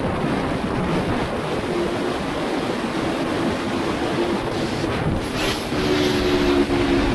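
Aprilia RSV4 1100 Factory's V4 engine running steadily under a constant rush of noise, with a droning tone that comes and goes, strongest in the last couple of seconds.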